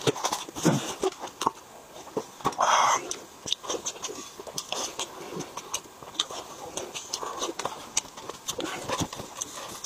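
Close-miked eating sounds: wet chewing and lip-smacking, with quick mouth clicks all through and a louder wet burst about three seconds in.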